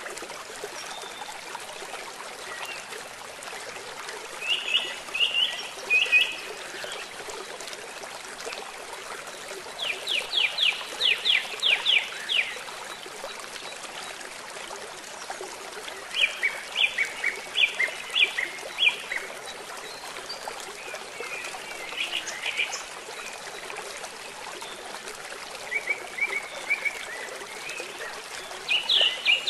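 Steady rush of rain and a flowing stream, with a bird calling over it in short phrases of rapid, repeated high chirps, about six phrases spaced a few seconds apart.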